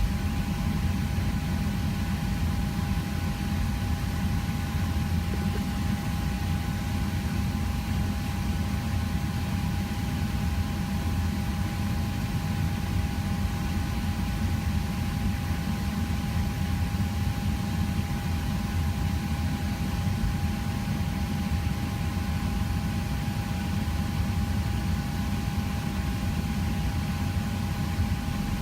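Steady cabin noise inside a Boeing 737 on the ground: a low rumble and hiss with a constant whine over it, unchanging throughout.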